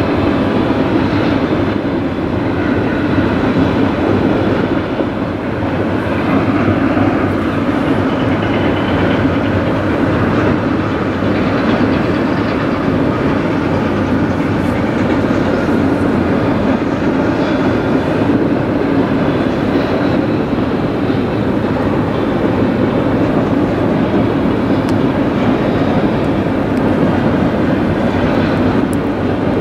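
Double-stack container cars of a freight train rolling across a steel trestle bridge: a steady, loud rolling noise of steel wheels on rail with some clickety-clack.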